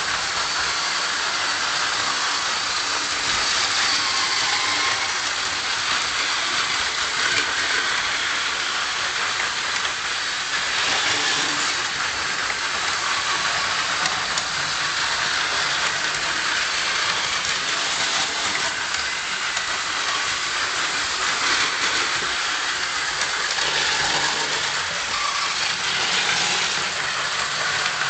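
Several battery-powered Plarail toy trains running together on plastic track: a steady whirring of small geared motors and the rattle of wheels over the track.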